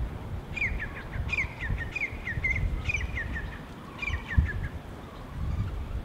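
A songbird calling in two quick bouts of rapid, down-slurred chirps, over a constant low rumble with a brief thump about four seconds in.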